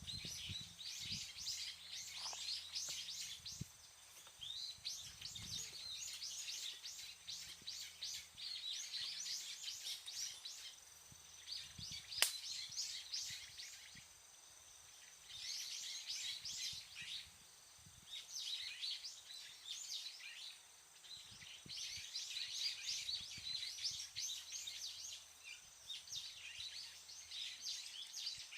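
Birds chirping in rapid, high-pitched runs that come and go in phrases, with a single sharp click about twelve seconds in.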